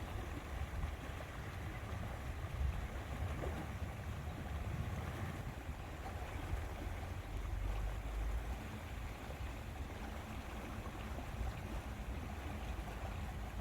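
Outdoor lakeside ambience: a steady, uneven low rumble of wind across the microphone over a faint wash of water.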